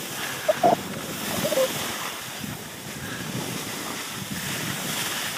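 Wind rushing over the microphone of a camera carried by a moving skier, mixed with the hiss of skis sliding on snow. A few brief squeaks stand out in the first two seconds.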